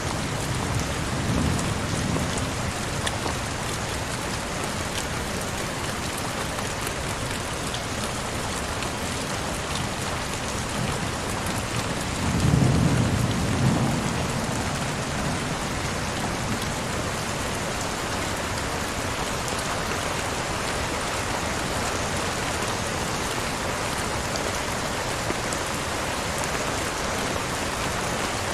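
Heavy rain falling steadily, with two brief low rumbles, one about a second and a half in and a louder one about twelve seconds in.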